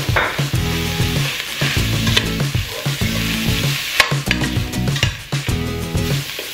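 Minced beef, onion and carrots frying in a stainless steel pot, sizzling steadily while being stirred, the utensil scraping and clicking against the pot. Background music with a regular beat plays underneath.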